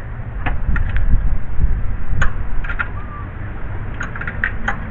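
Scattered light clicks and taps of hand tools on metal engine parts under the hood, over a low rumble. A single short bird chirp comes about three seconds in.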